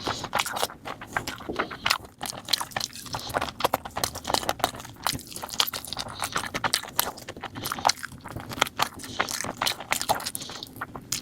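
Close-miked eating of chicken curry with rice: continuous wet chewing with many quick mouth smacks and clicks, several a second.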